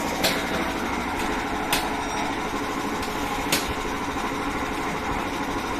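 Pressure washer running steadily with its spray, punctuated by a sharp click every second or two.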